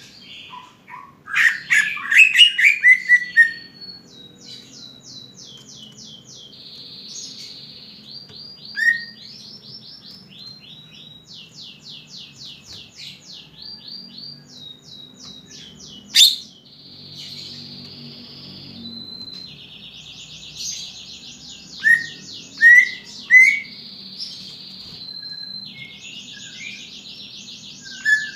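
Cucak ijo (green leafbird) singing a long, varied song of rapid high trills and buzzy phrases. There is a burst of loud, falling calls about two seconds in and three short, sharp chirps near the end.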